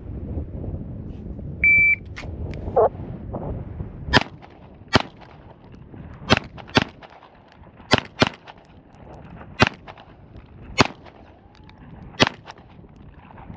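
Shot-timer start beep, then nine 9mm shots from a Springfield Armory Prodigy pistol over about eight seconds: three quick pairs, then three single shots with pauses between.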